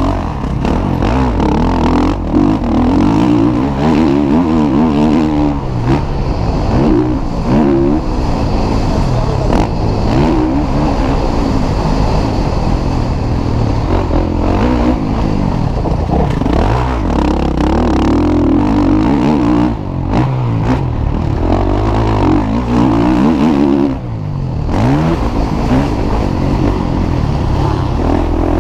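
Motocross bikes racing, their engines revving hard and dropping back again and again as they accelerate and shift through the gears.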